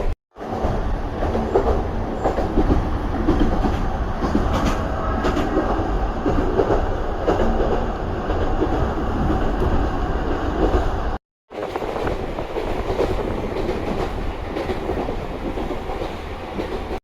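Narrow-gauge electric train with nose-suspended traction motors running along the track, wheels clattering steadily, with a strong low rumble. The sound breaks off abruptly for a moment about eleven seconds in.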